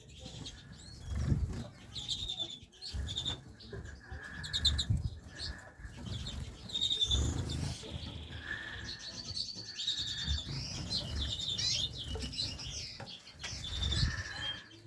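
Small caged finches, redpolls among them, chirping and trilling in short repeated calls, with soft low thumps in between.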